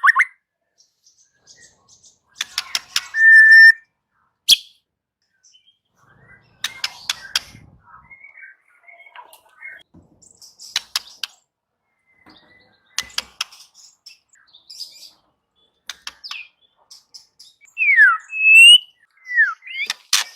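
White-rumped shama singing in separate phrases with short pauses between them: dry rattling chatters, a brief steady whistle, and clear falling and rising whistles near the end.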